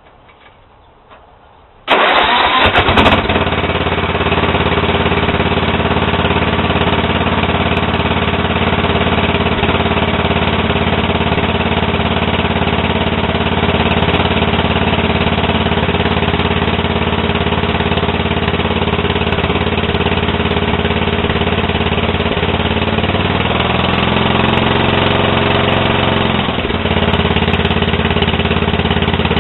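Sears LT10 lawn tractor engine cranked with the choke on; it catches after about a second of cranking and settles into steady running. About 23 seconds in, its speed sags and wavers for a few seconds, then steadies again.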